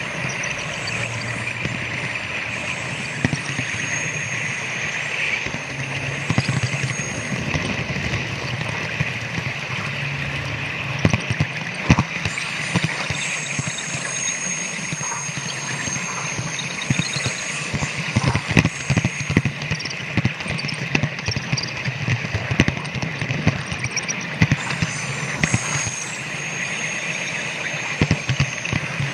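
Model train running on layout track: a steady running rattle and hum with many irregular sharp clicks of the wheels over rail joints. Simulated train running sound plays from the sound car's small onboard speaker.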